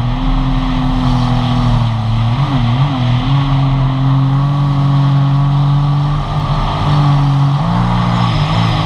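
Sea-Doo GTI jet ski engine running at a steady cruising throttle while under way. The pitch holds mostly even, with brief small wavers about two and a half seconds in and near the end.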